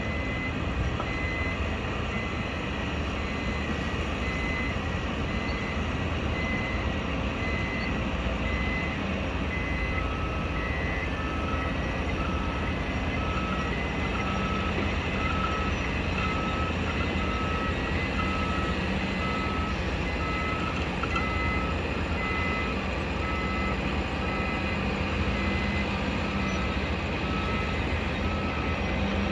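Reversing alarms on construction vehicles beeping at a building site: one high beep repeating about once a second, joined about ten seconds in by a second, lower-pitched alarm, over a steady rumble of engines and site machinery.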